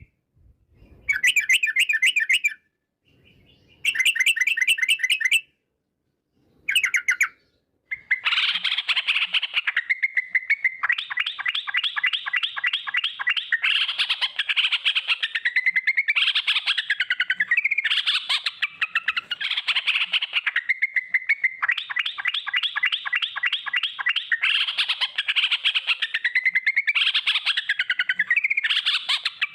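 Yellow-vented bulbul (trucukan) song: long rolling trills of rapid repeated notes. For the first eight seconds they come in short separate bursts, then they run almost without a break in long chattering rolls.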